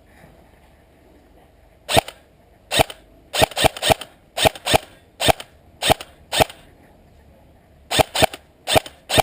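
Airsoft M4-style rifle firing single semi-auto shots. After two quiet seconds come about ten sharp shots roughly half a second apart, then a pause of about a second and a half, then a quicker run of about five shots near the end.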